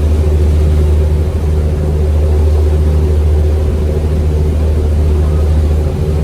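Sightseeing tour boat's engine running steadily while under way, heard from on board as a loud, even low hum.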